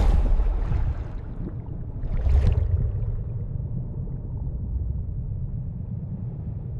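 Water sloshing and gurgling over a deep, steady wash. It starts abruptly, surges about two seconds in, then settles.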